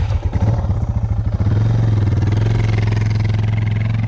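Motorcycle engine running under throttle, getting louder about a second and a half in and then held at steady revs.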